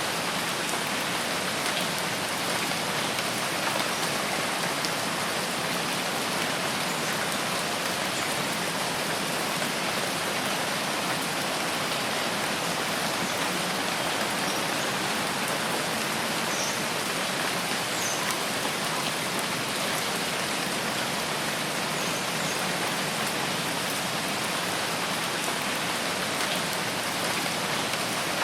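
Steady rain falling on forest foliage, an even, unbroken hiss.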